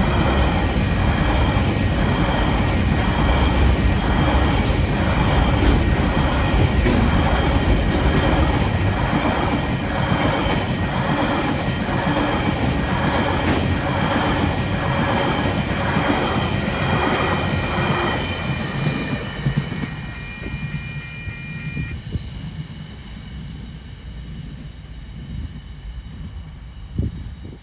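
Freight train wagons rolling past, the wheels clacking in a steady rhythm a little over once a second, with high steady tones ringing over the rumble. About 19 seconds in the sound dies away as the end of the train passes, leaving a faint low rumble.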